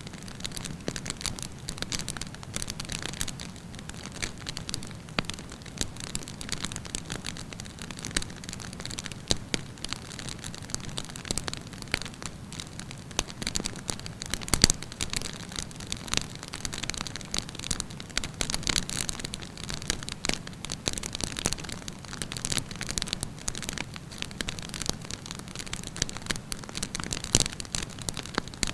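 Wood campfire crackling, with dense, irregular small pops over a steady hiss, and one sharper pop about halfway through.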